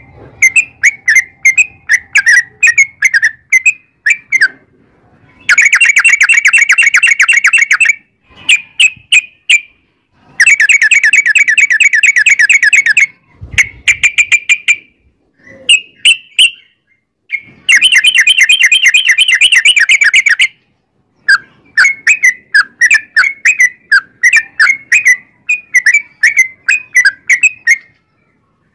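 Yellow-vented bulbul (trucukan) singing: loud bubbly chirping phrases, broken three times by long rapid trills of two to three seconds each.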